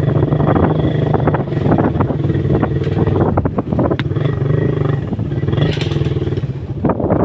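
Motorcycle engine running steadily while riding, with many short crackles and knocks over it.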